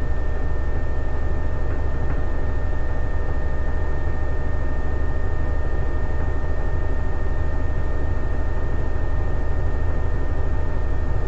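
Toshiba ZABOON AW-7D9 washing machine spinning at speed in its spin cycle: a steady low rumble with the slightly high-pitched whine of its inverter-driven, multi-pole direct-drive (DD) motor, which sounds like the fan of a dehumidifier. Level and pitch hold steady throughout.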